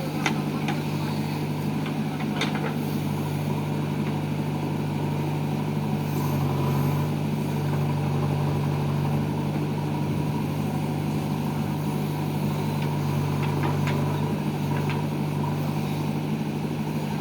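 Diesel engine of heavy machinery running steadily at a constant speed, with a few short clicks.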